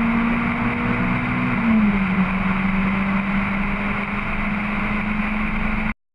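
Honda H22 2.2-litre four-cylinder engine in an EG Civic hatchback running hard at high revs on track, with road and wind noise. The engine note dips slightly in pitch about two seconds in, then holds steady before cutting off suddenly near the end.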